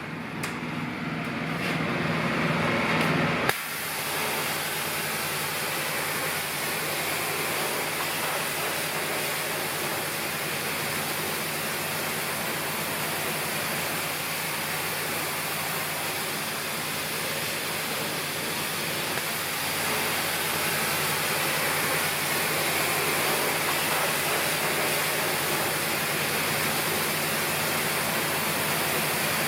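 Concrete mixer truck running, a steady engine hum under a constant hiss; the sound changes abruptly about three and a half seconds in, then runs on evenly.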